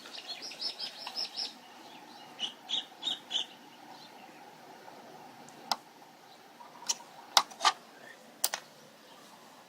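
A bird chirping in two quick runs of short, high calls, followed by several sharp clicks.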